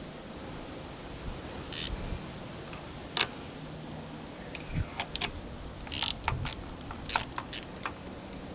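Scattered light clicks and taps of small tools and metal parts being handled during an outboard lower-unit repair, about a dozen in all and closest together in the second half, over a steady faint hiss.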